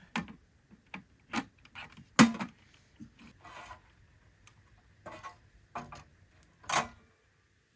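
A series of separate knocks and clatters from items being handled and set down, loudest about two seconds in and again near the end.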